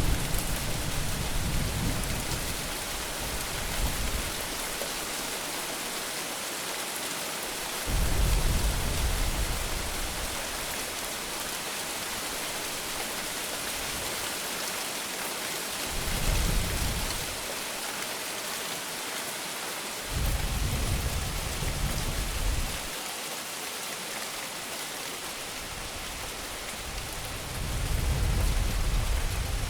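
Steady heavy rain hissing, with low thunder rumbling five times, some rumbles starting and stopping abruptly.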